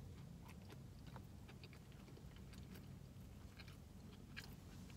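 Faint close-up chewing and biting of a chicken sandwich, with small wet mouth clicks scattered throughout over a low steady hum.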